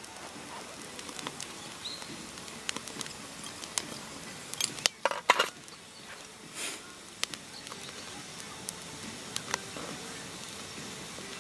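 Scattered light clicks and clatter of objects being handled, with a quick cluster of louder knocks about five seconds in.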